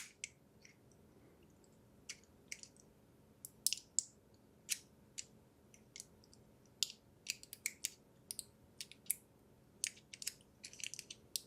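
Faint, irregular crinkles and ticks of a chilled thin thermal-pad sheet and its plastic protective film being handled and picked at to peel the film off, which is still not wanting to separate.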